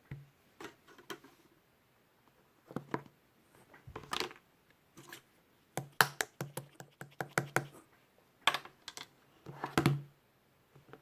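Irregular sharp taps and clicks, some in quick runs near the middle.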